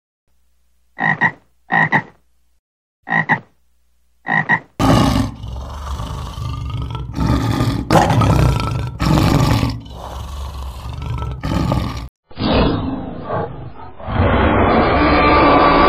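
Four short croaking calls about a second apart, then a lion roaring in long repeated bursts, then near the end a duller, drawn-out dinosaur roar sound effect.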